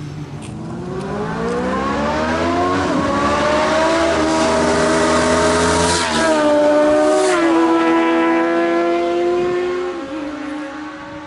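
Honda VFR800 Interceptor's V4 engine accelerating hard: the pitch climbs steadily, then drops with upshifts about six, seven and a half and ten seconds in, fading away near the end.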